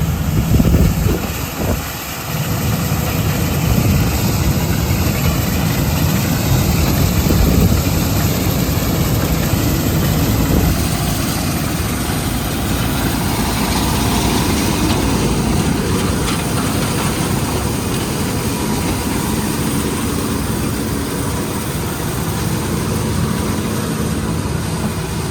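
Heavy diesel engine of farm harvest machinery running steadily.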